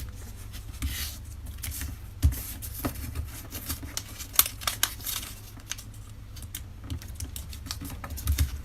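Sheet of paper being folded and creased by hand, with a scatter of irregular small clicks, taps and crinkles.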